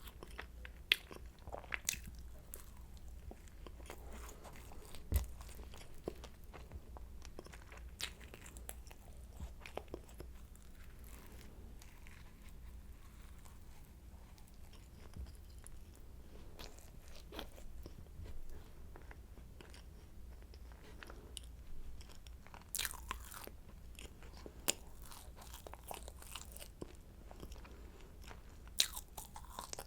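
Close-miked eating of a croissant: flaky pastry crackling and crunching as it is bitten and chewed, in scattered sharp crackles with some clusters near the end.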